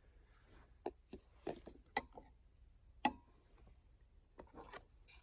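A series of about eight light knocks and clicks at irregular intervals, the loudest about three seconds in with a brief ring after it.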